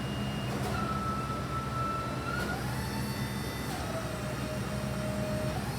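6.8 L V10 engine of a Ford F-450 bucket truck idling steadily, with thin whistling tones that slide up and down in pitch over the engine hum.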